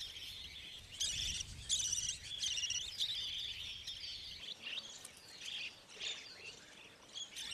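Budgerigars chirping: a busy run of high, twittering calls that thins out about halfway through.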